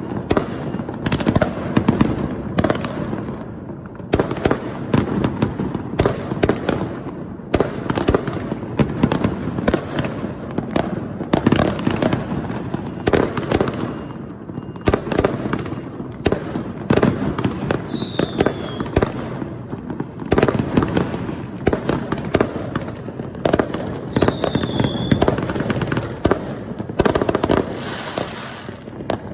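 Fireworks and firecrackers going off in a dense, continuous crackle of bangs for New Year, with a brief falling whistle twice, at about a quarter and halfway past the middle.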